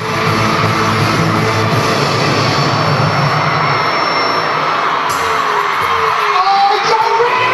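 Loud live concert sound: music playing over a screaming, cheering crowd, with a sharp hit about five seconds in.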